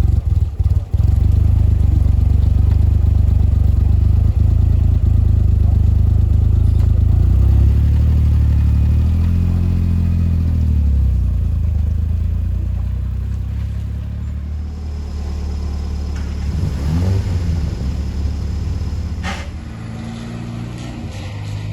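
Car engine and road noise while driving, a steady low drone. The engine note rises and then falls again about halfway through. The car is most likely a Ford Escort RS Cosworth.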